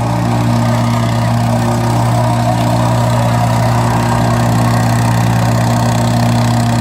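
Circular compactor running steadily on a job site, a constant low engine hum that holds one pitch throughout.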